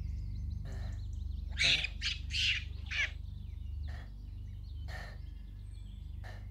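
A man breathing heavily, a noisy breath about once a second, over a steady low drone. A bird squawks several times in quick succession about one and a half to three seconds in.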